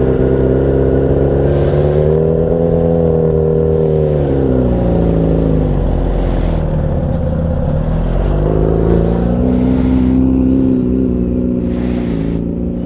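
Motorcycle engine running, its revs slowly climbing, dipping about halfway through and climbing again.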